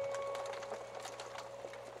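Wood fire crackling with scattered small pops, while a single musical note fades away over about two seconds.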